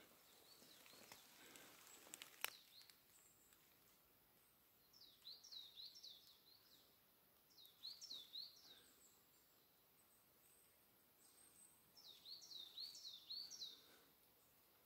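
A songbird calling faintly in three short bursts of quick, high, repeated chirps. There is a single sharp click a couple of seconds in.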